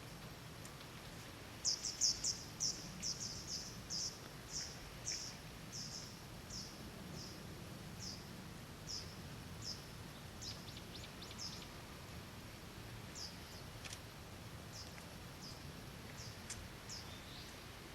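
A bird calling: a series of short, high, down-slurred chirps, coming quickly at first and then slowing to about one every half second.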